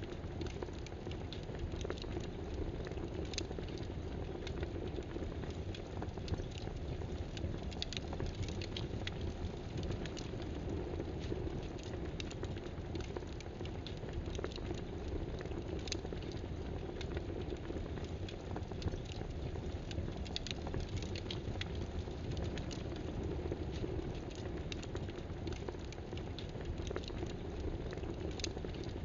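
Irregular clicks of computer keyboard typing, about one or two a second, over a steady rushing background noise.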